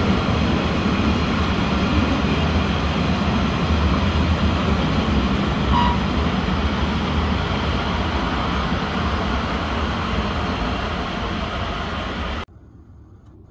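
Rhaetian Railway freight train of container wagons rolling past on metre-gauge track: a steady rumble and clatter of wheels on rails. It eases slightly as the last wagons go by, then cuts off suddenly near the end.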